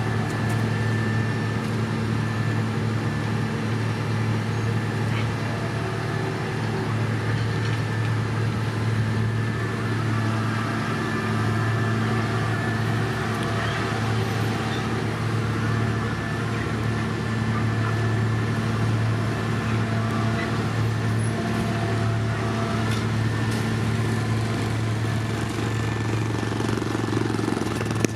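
Engine of heavy road-building machinery running steadily at a constant speed, a low, even hum with little change.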